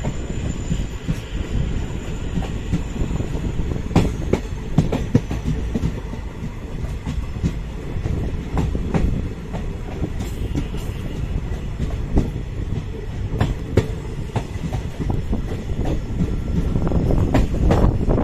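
Passenger train running along the track, heard from aboard. A steady rumble of wheels on rails is broken by irregular clickety-clack clicks, and it grows louder near the end.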